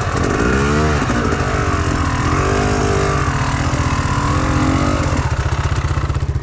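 Enduro motorcycle engine revving up and down several times, then settling to a steady idle about five seconds in.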